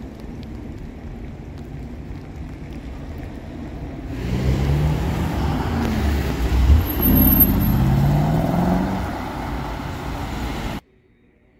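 Mercedes-AMG SL 63's 4.0-litre twin-turbo V8 idling with a low steady rumble, then, about four seconds in, the car pulling away hard: the revs rise through one gear, drop at an upshift, and rise again as it passes and drives off. The sound cuts off suddenly near the end.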